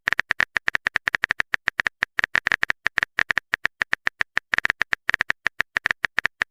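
Phone keyboard typing sound effect: a fast, even run of short sharp taps, about nine a second, with a few brief gaps.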